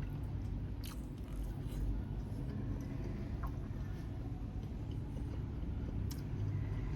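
A person chewing and biting food at close range, with a few short sharp clicks, over a steady low rumble.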